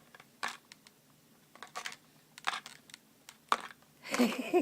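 Plastic water bottle clicking and crackling as an Amazon parrot bites and pushes it with his beak: separate sharp clicks about a second apart.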